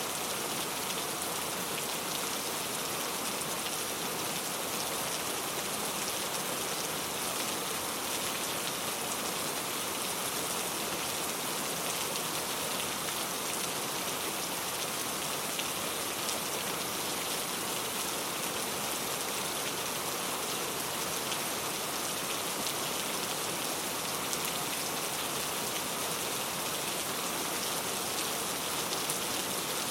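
Steady rain falling, an even hiss of drops with faint fine patters and no thunder.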